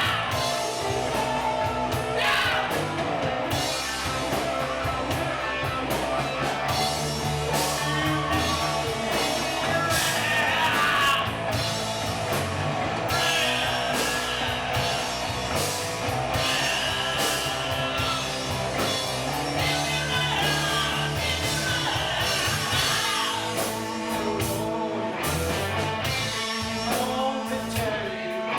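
A rock band playing a song: electric guitar, bass and drum kit with a voice singing over them.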